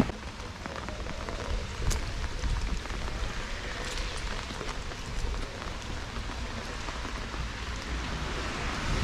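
Steady rain falling, an even hiss with many small sharp clicks of drops striking nearby surfaces.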